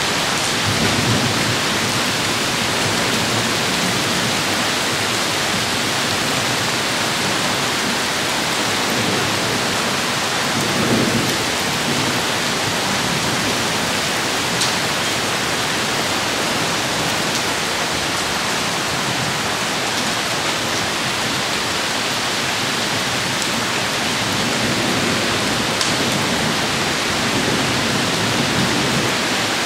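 Heavy rain pouring down steadily in a thunderstorm, with low rumbles of thunder about a second in, around eleven seconds in, and again near the end.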